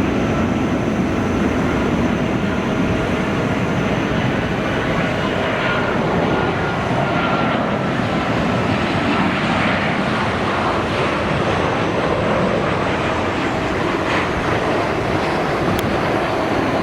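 Airliner engines running: a steady, loud rush of noise with faint whining tones over it.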